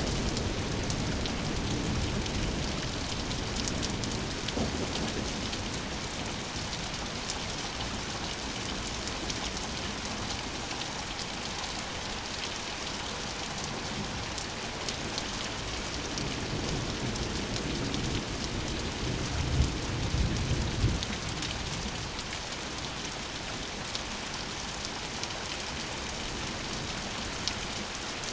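Steady rain falling on surfaces, with rolling thunder: a rumble dying away in the first few seconds and another building and peaking around twenty seconds in before fading.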